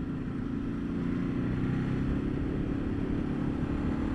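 Ducati Multistrada 1200's L-twin engine running at road speed, its pitch rising gradually as the bike picks up speed, with low wind rumble on the microphone.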